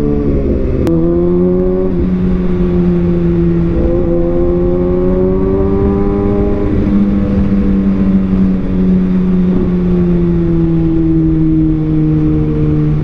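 Kawasaki Ninja ZX-6R's inline-four engine running under way, with its pitch rising and falling and stepping at a few gear changes. A single sharp click about a second in.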